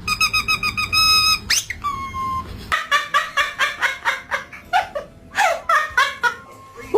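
Pet parrot whistling and chirping: a fast run of short piping notes, a quick rising whistle and a held note, then a long run of rapid chirps and falling whistles.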